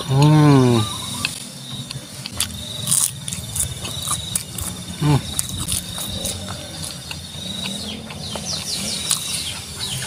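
A man's short hummed "mmm" rising and falling at the start, then wet mouth clicks and smacks as he chews a bite of food. A cricket trills steadily in the background through the middle.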